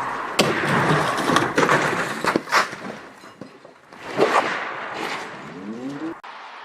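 Car crash: a quick run of loud bangs and crunching impacts in the first couple of seconds, then another bang about four seconds in.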